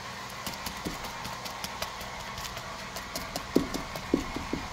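O-scale model train running on the layout: a steady motor hum under a quick run of small clicks, with a few short low taps about three and a half seconds in.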